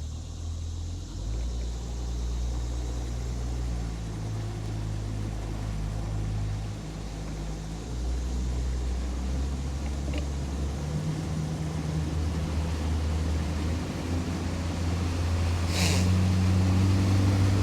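Boat's outboard motor running, its drone shifting up and down in steps as the throttle changes and growing louder near the end. A brief sharp knock comes near the end.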